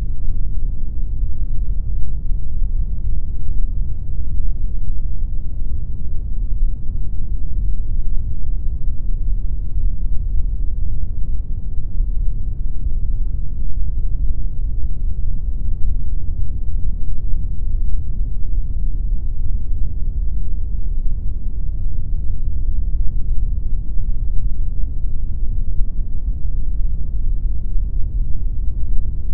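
Continuous synthetic pink noise: a steady, loud, deep rushing hiss, heaviest in the bass and with little treble, unchanging throughout.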